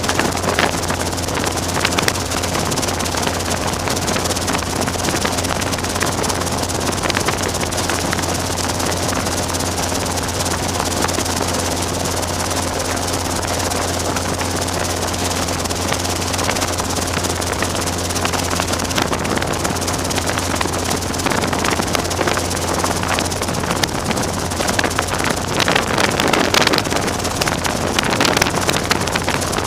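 Robinson R22 helicopter running: a steady drone of rotor and carbureted piston engine. A rush of wind noise grows over the last few seconds.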